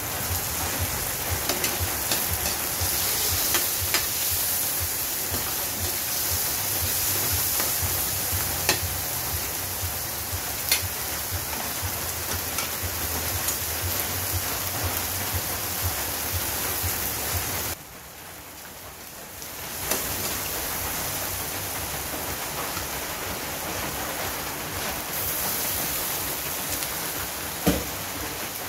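Stir-frying in a carbon-steel wok on a gas stove: a steady sizzle of meat and vegetables, with scattered sharp clicks of a utensil against the pan. The sizzle drops away for about two seconds past the middle and then comes back.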